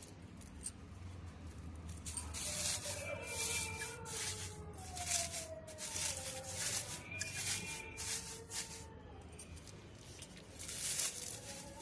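Repeated rubbing or rustling strokes, coming in a run in the first half and again near the end, over faint background music.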